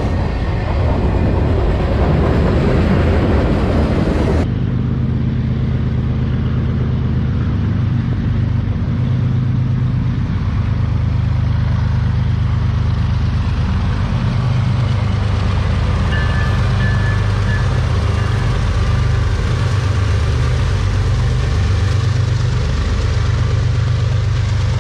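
Diesel freight train locomotives running, a steady low engine drone. The sound changes abruptly about four seconds in, from a wider rushing noise to the deeper drone.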